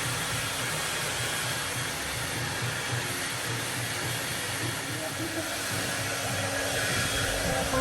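Handheld hair dryer blowing steadily, a continuous rush of air over a low motor hum.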